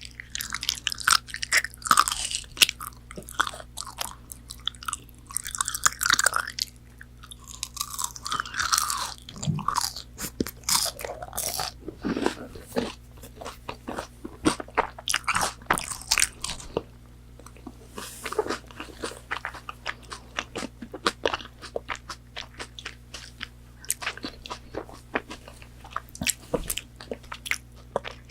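Close-miked eating of crispy McDonald's fried food: crunchy bites and chewing, with wet mouth clicks. The crunching is dense for the first half, then thins out to sparser clicks and softer chewing.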